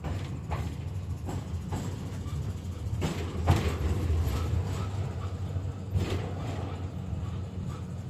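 KTM-5M3 (71-605) tram car running along the track, heard from inside: a steady low rumble with irregular knocks and clatters from the wheels and car body, the loudest about three and a half seconds in.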